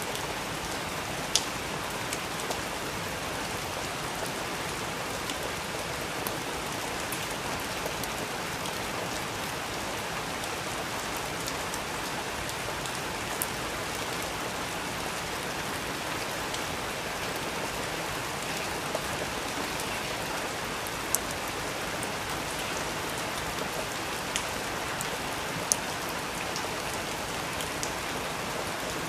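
Steady rain falling on a surface, an even hiss with a few sharper, louder ticks scattered through it.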